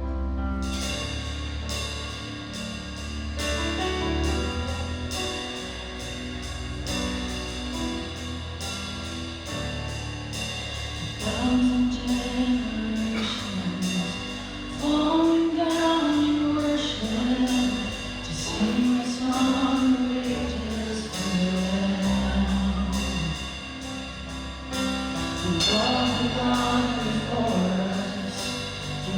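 Worship band music with a steady beat. An instrumental passage comes first, then a sung melody enters about eleven seconds in and carries on over the band.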